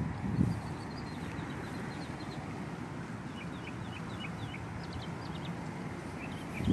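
Small birds chirping in the background in quick short notes, over a low steady rumble.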